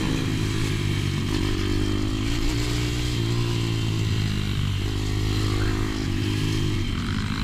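125 cc pit bike engine running hard on track, the revs rising and falling repeatedly with the throttle.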